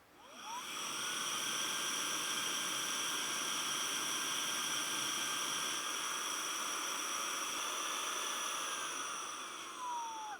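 Small electric motor-driven blower spinning up with a rising whine, then running steadily with a hissing rush of air, and winding down with a falling whine near the end.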